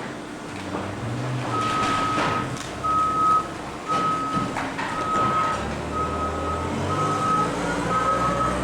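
A vehicle's backup alarm beeping about once a second, seven beeps at one steady pitch, over the low running of an engine, with a rising whine near the end.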